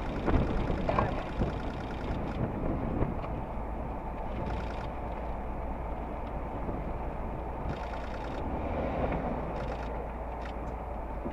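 Steady rumble of a vehicle heard from inside its cabin, with faint voices in the first second or so.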